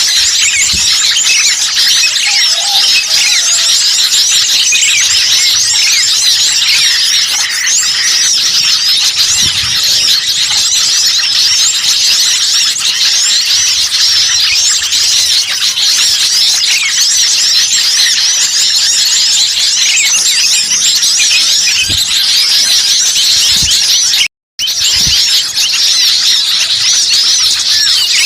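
Bird-lure recording of many small songbirds calling at once: a dense, busy chorus of high chirps, twitters and trills meant to draw wild birds in. The sound cuts out for a split second near the end, then resumes.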